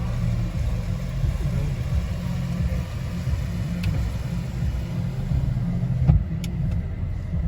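Low, steady rumble of a car and car-wash machinery heard from inside the car's cabin, with a single sharp thump about six seconds in.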